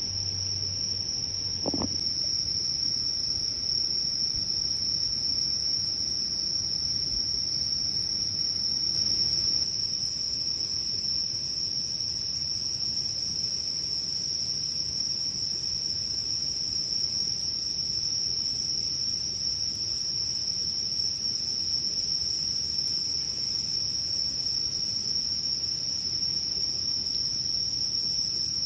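A chorus of crickets chirring: one steady, unbroken high-pitched trill over a low background hiss.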